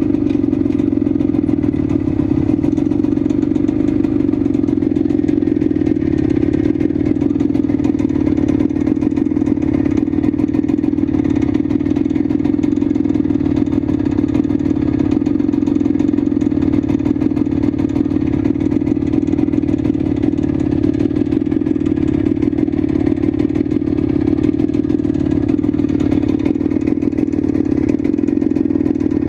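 IZh Planeta Sport 350's single-cylinder two-stroke engine running at a steady speed, with no change in pitch.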